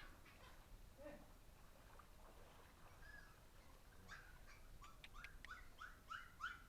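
Faint series of short, rising, high-pitched calls from a small animal, coming quicker and a little louder in the last couple of seconds.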